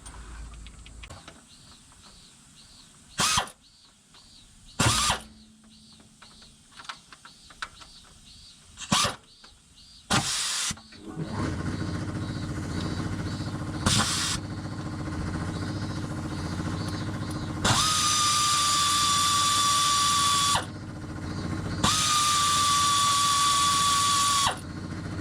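A few sharp clicks and knocks, then an engine running steadily, with two loud bursts of about three seconds each of a high, slightly falling whine with hiss over it.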